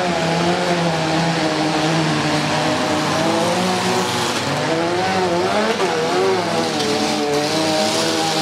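Engines of several destruction derby cars running hard together as they race around the oval, their pitch rising and falling, most of all about five to six seconds in.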